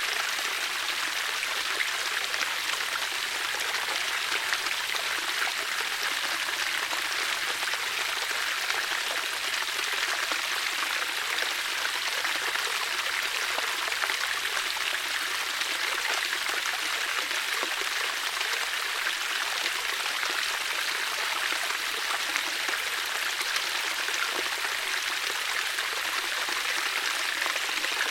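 Water flowing steadily, a continuous even rush with fine splashing.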